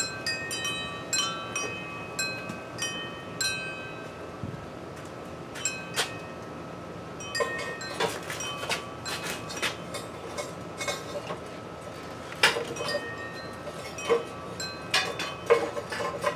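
Wind chimes ringing, several tones at different pitches, with sharper metallic clinks scattered through the second half.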